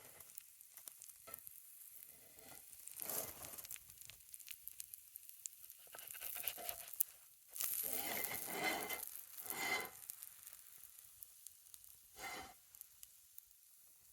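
Sizzling over a campfire in irregular hissing bursts, with small crackles in between; the loudest stretch comes about halfway through.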